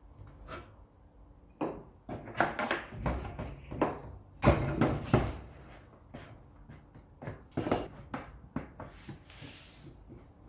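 Wooden pieces being handled: irregular knocks and scraping, in two busy spells with a lull between.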